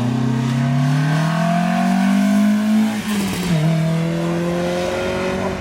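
Rally car engine accelerating hard, its pitch rising. About three seconds in there is an upshift, and then it pulls again.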